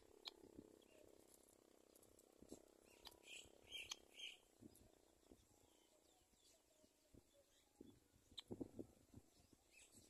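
Faint high bird chirps, three short ones in quick succession about three to four seconds in, over near silence. A few soft low knocks come a little after eight seconds.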